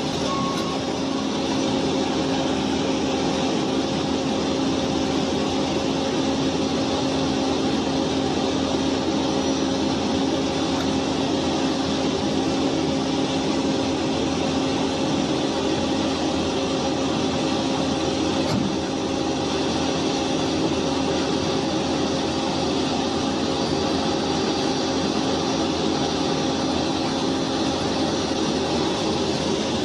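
Steady drone of a heavy vehicle's engine running at constant speed. A reversing beeper sounds briefly at the very start.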